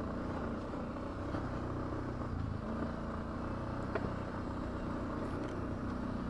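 ATV engine running steadily at low trail speed, with a faint click about four seconds in.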